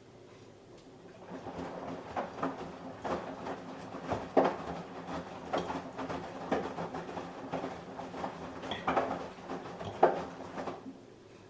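Samsung Eco Bubble washing machine drum turning during the wash: a steady motor hum with repeated thuds and swishes of the tumbling laundry, starting about a second in and stopping near the end.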